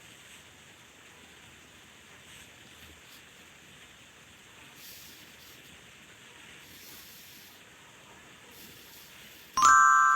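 Faint steady hiss, then near the end a single sharp ding: one strike that rings with several steady tones and fades away over about a second.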